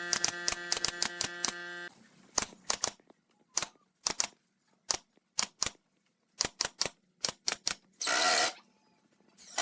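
A run of sharp clicks and taps. For the first two seconds a steady, motor-like hum runs under them and then stops. After that the clicks come singly at uneven spacing, with a short burst of noise about eight seconds in.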